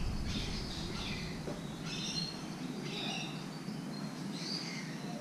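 Birds chirping: short high calls repeating every second or so over a faint steady background hiss.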